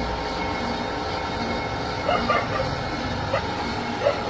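Steady running of workshop machinery, with short, higher-pitched squeaks or clinks in clusters about two seconds in and again near the end.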